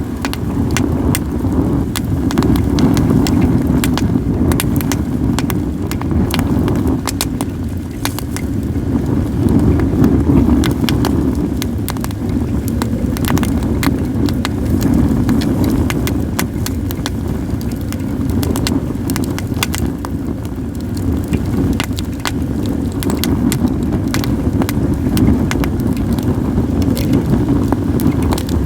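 Wood fire of acacia and other mixed firewood crackling, with many sharp separate pops, over a steady low rumble of wind on the microphone.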